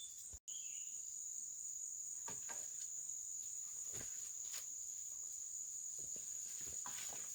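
Steady high-pitched drone of insects, cricket-like, with a few soft knocks or footsteps scattered through it; the sound drops out completely for an instant about half a second in.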